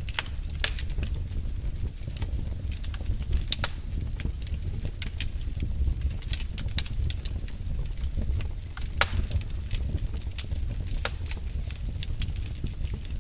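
Wood fire burning in a fireplace: irregular sharp pops and crackles over a steady low rumble.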